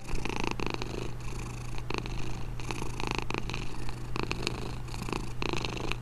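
Domestic cat purring steadily, a low continuous purr that swells and fades slightly in loudness.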